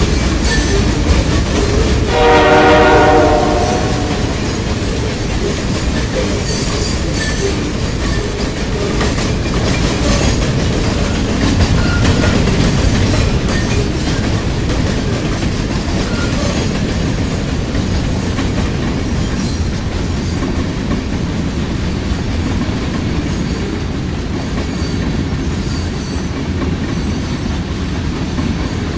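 Train rolling past with a steady rumble and clatter of wheels on rails. A short horn blast sounds about two seconds in.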